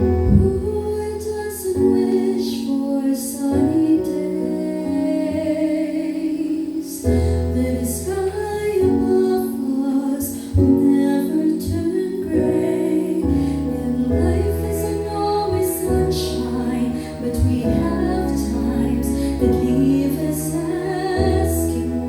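A slow gospel song: a woman singing with vibrato over an instrumental accompaniment with sustained bass notes.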